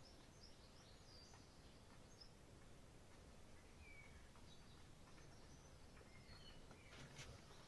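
Near silence: quiet room tone with a few faint, short high chirps scattered through it.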